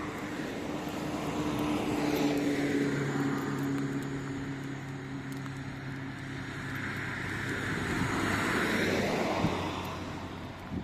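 Motor vehicles passing on a street. An engine hums steadily through the first part while one vehicle passes about two seconds in, and a second vehicle passes about eight to nine seconds in.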